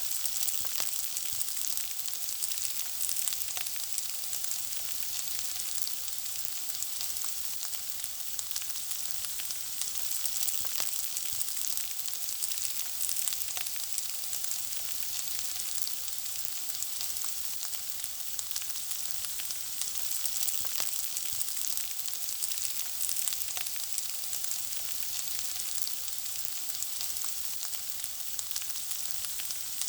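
Food frying in hot oil: a steady high sizzle with many small crackles and pops throughout.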